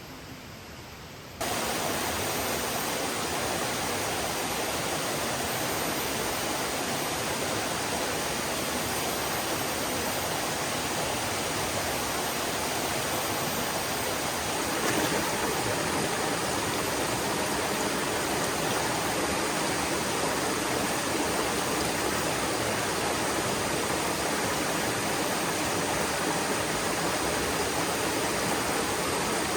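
Steady, dense rush of water, starting abruptly about a second in.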